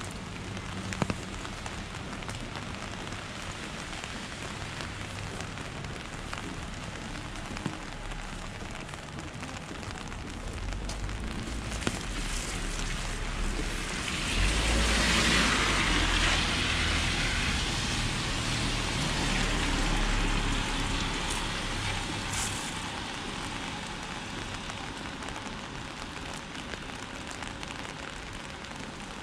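Steady rain falling, with a few sharp drops ticking. Near the middle a vehicle passes on the wet street: a rushing hiss with a low rumble builds, peaks and fades away.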